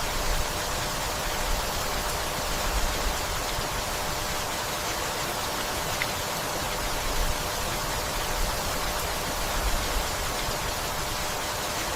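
Steady rain falling, an even hiss, with a few brief swells in loudness now and then.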